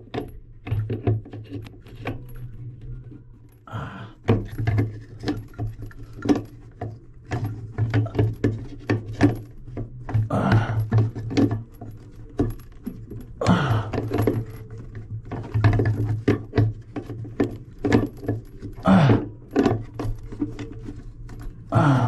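Repeated metal clicks, clinks and scrapes of a large wrench being worked onto faucet fittings in the tight space under a sink.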